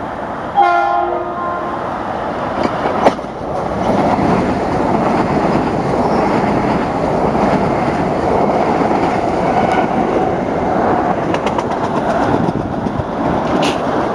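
Metro-North commuter train sounding a short horn blast about half a second in, then passing close by with a steady rumble and wheel clatter. A single sharp clank about three seconds in is the loudest moment.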